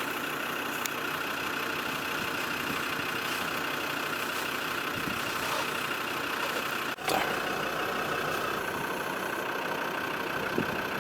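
Old Land Rover's engine running steadily as it drives, with a brief break in the sound about seven seconds in.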